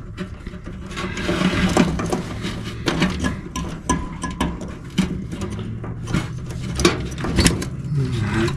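Irregular small clicks, knocks and rattles of hands working wires and spade connectors onto an electric furnace's heat-strip sequencer inside the sheet-metal cabinet.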